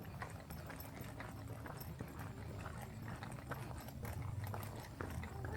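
Footsteps on a walking trail: irregular clicks and scuffs of shoes on the path over a low steady rumble.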